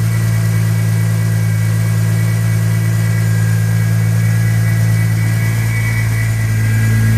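Single-turbo 2JZ-GTE straight-six idling steadily while still cold after a cold start, with a faint steady whistle from the throttle body, which the owner says is nothing to worry about.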